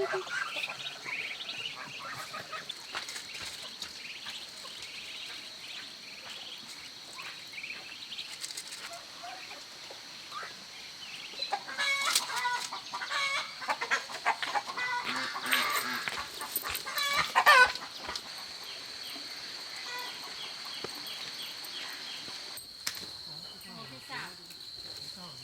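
Chickens clucking and calling, loudest in two stretches of drawn-out, high-pitched calls around the middle. A steady high insect drone runs underneath.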